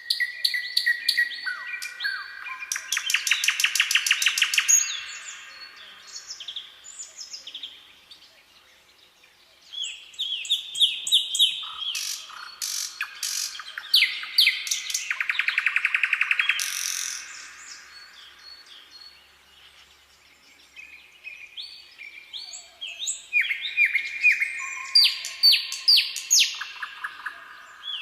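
Several songbirds singing in bouts of varied chirps and whistled phrases. Rapid trills come about three seconds in and again around fifteen seconds, with short lulls between the bouts.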